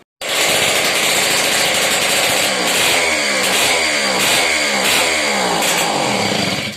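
Sh-58 50 cc two-stroke moped engine running after restoration, revved up and down several times at high revs. The sound starts suddenly after a short silence and cuts off near the end.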